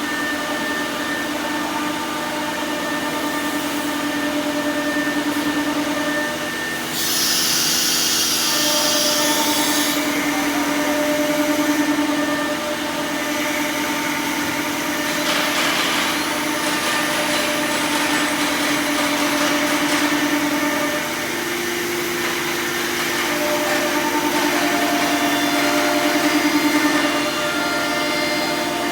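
Horizontal spindle of an ATC CNC router running and machining door lock holes: a steady machine drone holding a few even tones. A burst of high hiss comes in about seven seconds in and lasts some three seconds, and the main tone steps up slightly about two-thirds of the way through.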